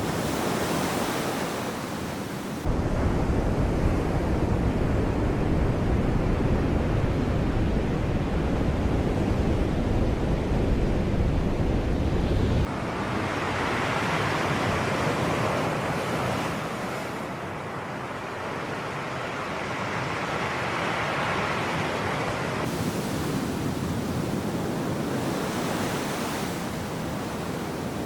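Sea waves washing on the shore, the hiss swelling and fading as each wave comes in. From about three seconds in to about thirteen seconds in, a heavy low rumble starts and stops abruptly.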